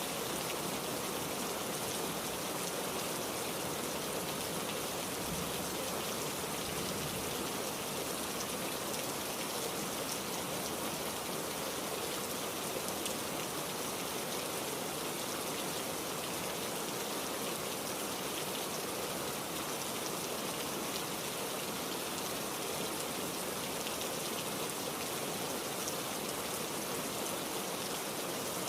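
Heavy rain falling steadily, a dense even hiss with fine patter of drops on surfaces.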